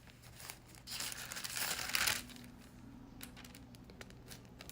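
Thin Bible pages rustling as they are turned to find a verse: a soft papery rustle lasting about a second, then a few faint ticks.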